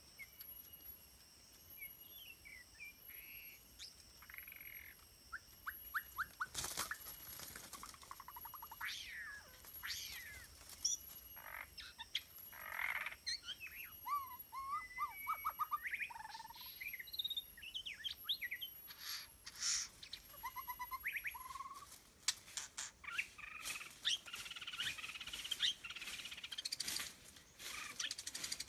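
Birds chirping and calling in many short rising and falling notes, with scattered sharp clicks and busier chirping near the end.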